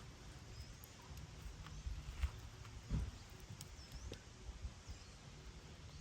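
Wood campfire crackling, with scattered sharp pops and a couple of louder ones near the middle, over a low rumble. Small birds chirp faintly now and then in the background.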